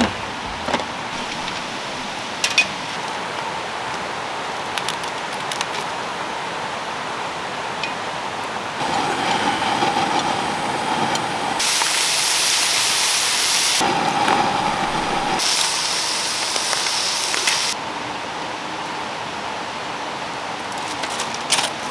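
Meat sizzling and spitting on a grill: a steady hiss that turns louder and crackling in several stretches that start and stop abruptly, loudest in the middle.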